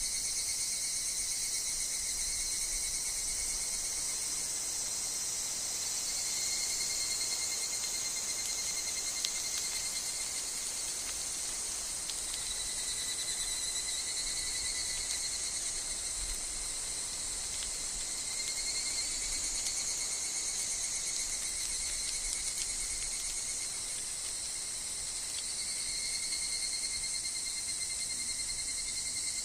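Woodland insect chorus with higurashi (evening cicadas): a steady high-pitched drone, with pulsing calls at a lower pitch that swell and fade every few seconds.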